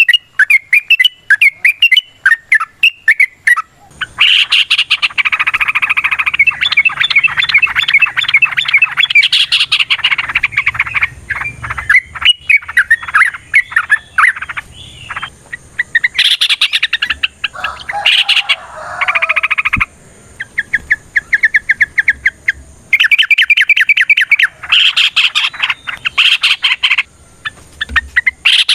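Yellow-vented bulbuls (trucukan) singing in long, rapid bubbling bursts of notes, with brief pauses between bursts, more than one bird chattering at once as if dueling.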